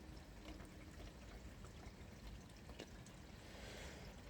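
Steady rain, an even hiss with scattered faint patters.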